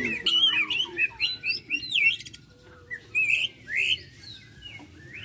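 Lovebirds chirping and chattering in quick, sharply rising and falling calls, densest in the first two seconds, then a short lull before a few more calls.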